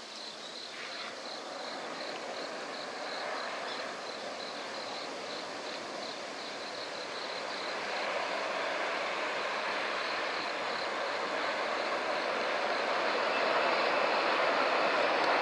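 E4 series Max double-decker Shinkansen running past at speed on a viaduct: a steady rushing noise that grows louder as the train comes on and crosses a steel truss bridge.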